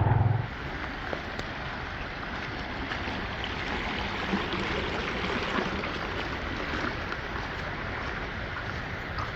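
Steady rushing water noise, an even hiss without pitch.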